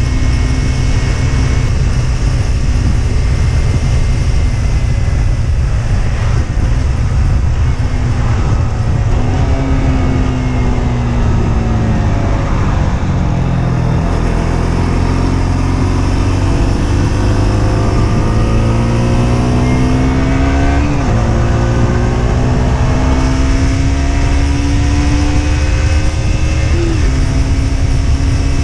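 Husqvarna Svartpilen 125's single-cylinder engine running under way: the engine note falls off about 9 to 13 seconds in, then climbs steadily through the gears, dropping at upshifts about 21 and 27 seconds in. A heavy low rumble of wind runs underneath.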